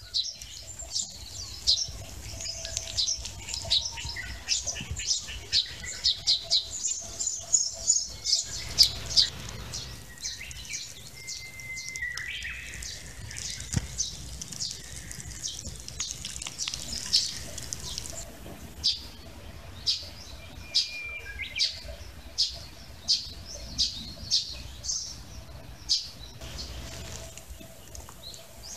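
Small birds chirping: many short, high chirps in quick runs, thickest in the first third, over a low steady rumble.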